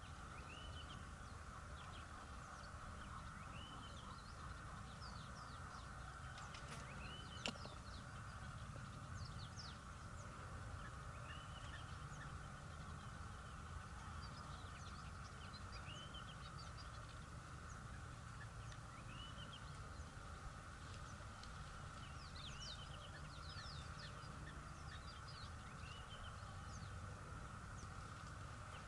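Faint bird calls in the bush: a short rising call repeats every few seconds, with thin sweeping chirps above it, over a steady background hum. One sharp click about seven seconds in.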